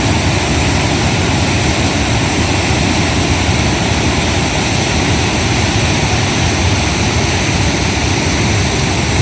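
Floodwater rushing: a loud, steady rush of noise that does not change.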